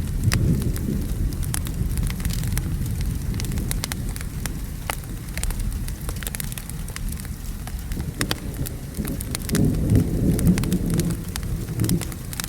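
Thunder rumbling low and continuously under steady rain, swelling just after the start and again about ten seconds in, with many sharp crackles and pops from a wood fire scattered throughout.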